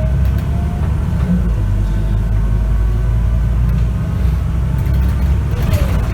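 Scania K94UB city bus under way: its diesel engine runs with a heavy low rumble under a whine from the ZF automatic transmission. The whine rises in pitch for about the first second, then holds, and drops near the end with a short burst of hiss.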